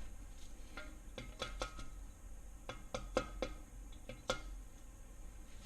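Light metallic clicks and clinks, about ten in all and in small clusters, each with a short ring, as steel-backed engine main bearing shells are handled and seated against the block.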